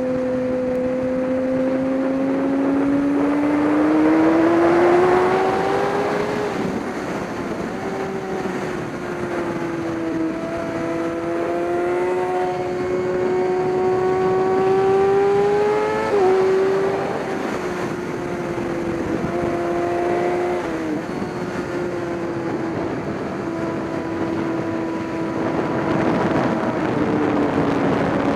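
Race vehicle's engine running under load through a lap. Its pitch climbs steadily over the first few seconds, shifts about six seconds in and again around sixteen seconds, then eases off near the end, with a constant rushing noise underneath.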